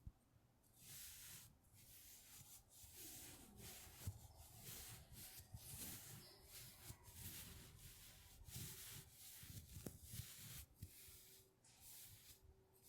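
Quiet rubbing strokes on a surface, repeated one after another about once or twice a second, made close to the microphone as an ASMR trigger.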